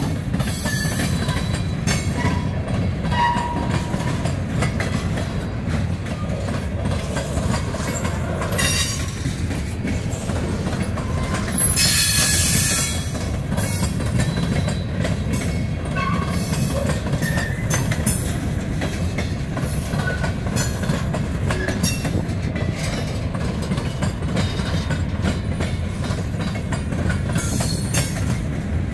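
A freight train of covered hopper cars rolling past close by: a steady low rumble with the clatter of wheels over the rail joints. Brief high wheel squeals come about nine seconds in and again from about twelve to thirteen seconds in.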